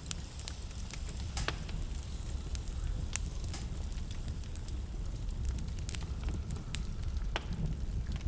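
Wood fire crackling in a fireplace: a low steady rumble of flames with frequent irregular sharp pops and snaps, a few louder ones scattered through.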